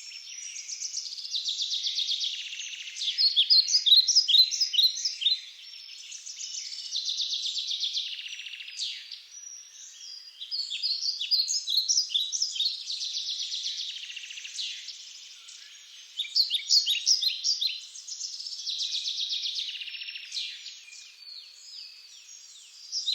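Great spotted woodpeckers calling: bout after bout of rapid, high-pitched chattering, each bout lasting a second or two, with short pauses between.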